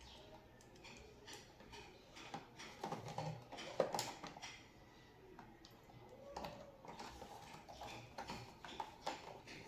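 Faint scattered clicks and scratchy scrapes of small tools and metal parts being handled on a bench, busiest in the middle and again near the end.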